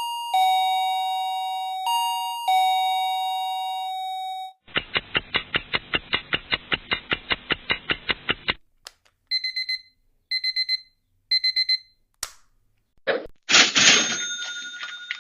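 A string of short sound effects. First a two-note descending doorbell chime, ding-dong, twice. Then a bell ringing fast at about five strokes a second for about four seconds, three short electronic beeps, and near the end a loud noisy clatter with ringing tones in it.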